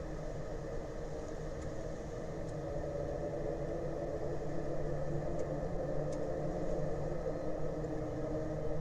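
Engine running steadily with a low rumble and a droning hum, slowly growing louder.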